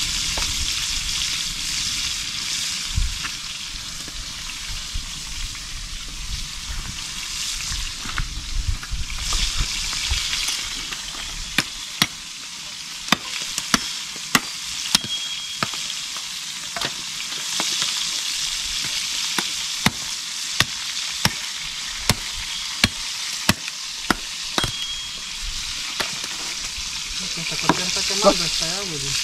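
White-winged dove meat frying in hot oil, a steady sizzle with sharp pops and spatters coming about once a second from a little before halfway on.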